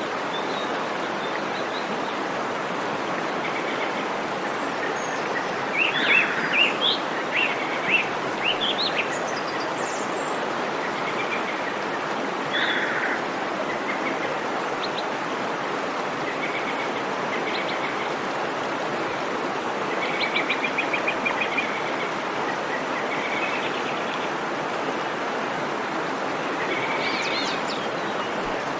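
A waterfall's steady rush of water, with birds calling over it: a run of chirps, a short burst, a rapid trill, then a few more calls near the end.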